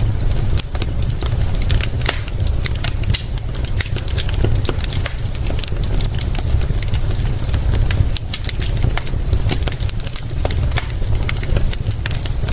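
Wood fire crackling, with many quick sharp pops over a steady low rumble.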